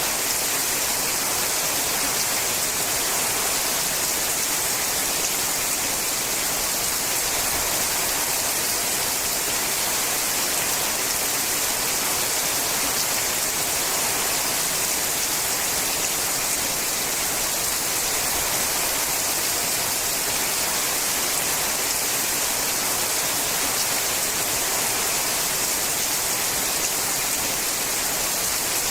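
Rain falling steadily on a sheet-metal roof: a dense, even patter of drops that neither swells nor fades.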